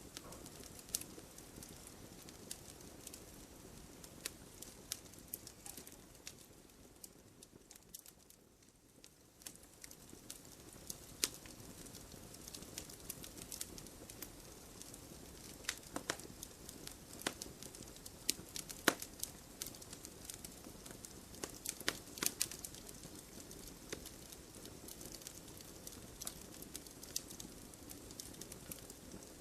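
Wood fire burning in a fireplace, crackling with scattered sharp pops over a steady low hiss. The fire briefly quietens about a third of the way in.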